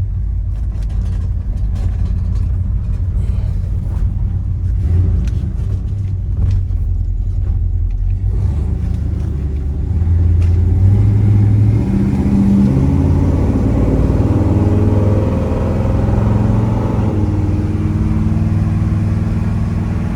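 1972 Chevrolet El Camino SS's 402 big-block V8 running as the car is driven, heard from inside the cab. About ten seconds in it gets louder under throttle and the engine note rises as the car accelerates.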